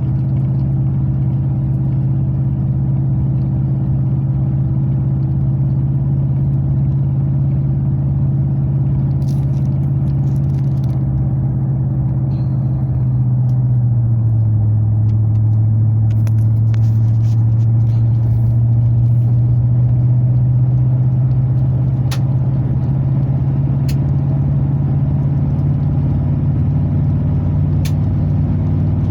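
2003 Chevrolet Silverado 2500HD's V8 through a FlowFX aftermarket exhaust, heard inside the cab with the windows up: a steady low drone while cruising. Its pitch drops slightly about halfway through, then slowly climbs again.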